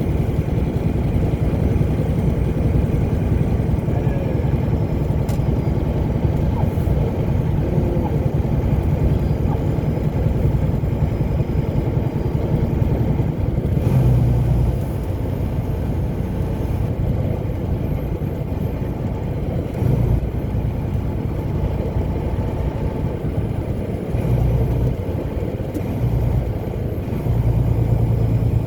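Steady low rumble of a car being driven, engine and tyre noise, swelling briefly a few times.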